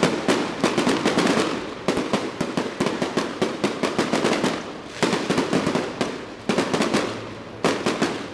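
Firecrackers going off in rapid crackling runs, each a dense string of sharp bangs, with short breaks between runs every second or two.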